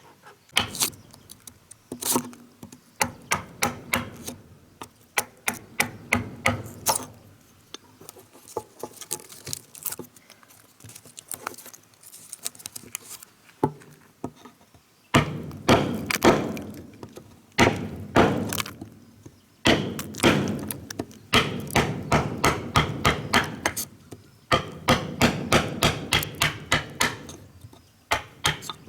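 Repeated blows on wood, about two a second, in runs with short pauses; the blows are heavier and fuller in the second half.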